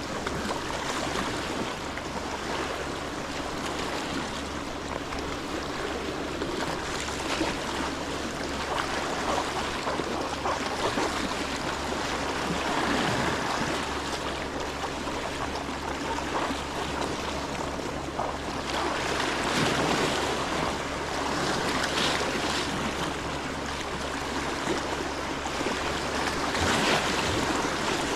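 Wind on the microphone over sea water washing at the shore: a steady rushing noise that grows louder in places.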